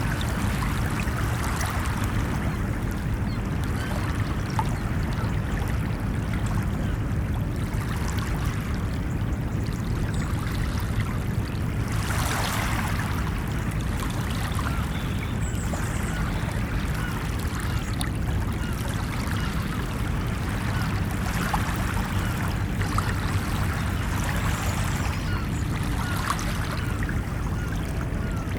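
Ocean waves washing onto a beach in a steady wash of surf, with one louder surge about twelve seconds in.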